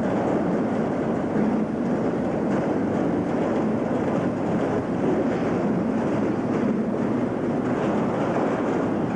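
Steady running noise of a moving Southern Pacific freight train heard from inside an open boxcar: the car's wheels on the rails and the rattle of the car.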